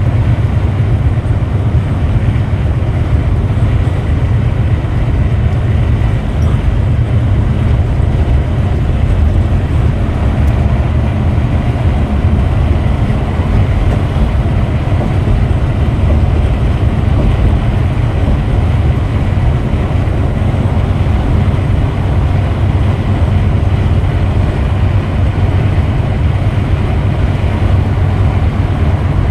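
Scania Metrolink multi-axle coach under way: a steady, loud, low rumble of engine and road noise.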